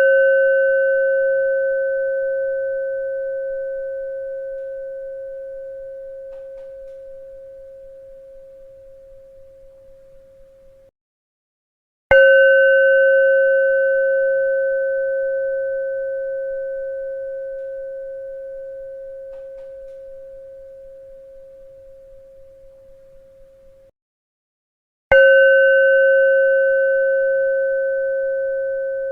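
A bell struck once about every 13 seconds, each strike ringing on a clear steady tone with a fainter higher overtone and slowly fading. Twice the ringing stops abruptly about a second before the next strike, about 12 and 25 seconds in.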